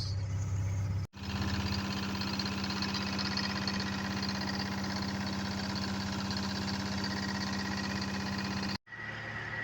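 Wabco 555 grader's naturally aspirated Detroit inline-six two-stroke diesel running steadily, with two brief sudden drop-outs, about a second in and near the end.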